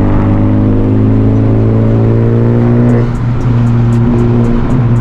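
Turbocharged Honda Civic four-cylinder engine pulling under acceleration, its pitch rising steadily, then briefly dropping and dipping in loudness about three seconds in before running on at a steadier pitch.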